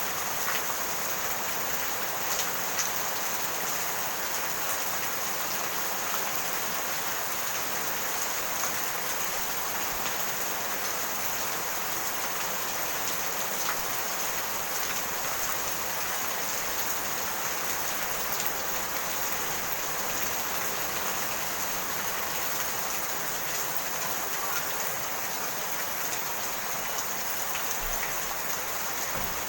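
Steady rain falling, an even hiss dotted with the small ticks of individual drops.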